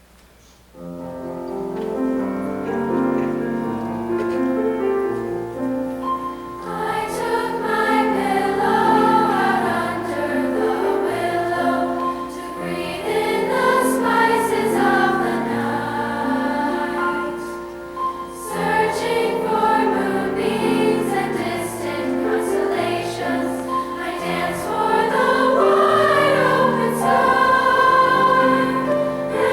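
Junior high girls' choir singing a slow choral piece with piano accompaniment. The piano plays alone from about a second in, and the voices enter about six seconds in.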